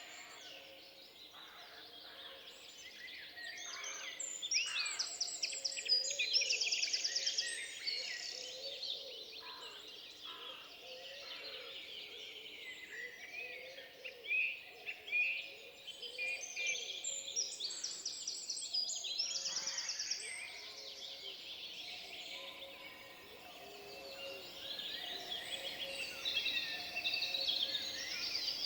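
Several songbirds singing over one another in a forest: a dense mix of high chirps, rapid trills and short whistled glides that swells twice and then builds again toward the end.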